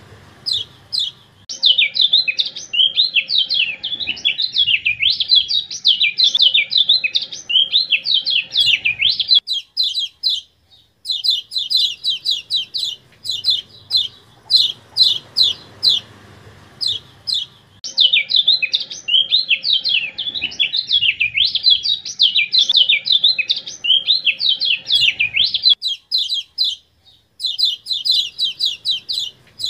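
Recorded song of a kecial kuning, a white-eye: fast runs of sharp, high chips alternate with long stretches of dense, rapid warbling. The sequence repeats as a loop about every 16 seconds, with short breaks between.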